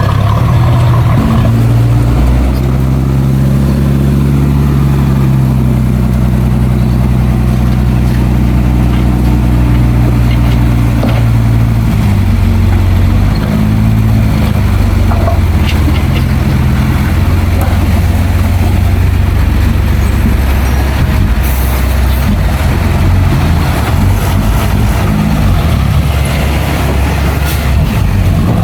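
Heavy diesel earthmoving machinery running steadily, its engine note shifting about twelve seconds in.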